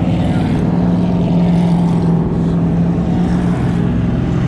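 Car engines running with a steady drone that holds an even pitch, stepping up slightly about a second in.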